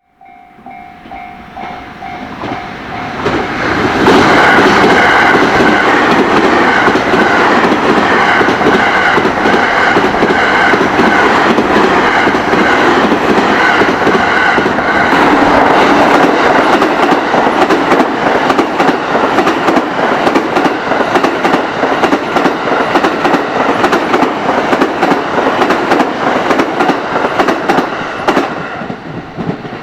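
Sunrise Express sleeper train (285-series electric multiple unit) approaching and passing at speed, its wheels beating a clickety-clack over the rail joints, while the level-crossing warning bell rings in a steady repeating pattern. The train grows loud over the first four seconds, stays loud for more than twenty seconds, and fades near the end.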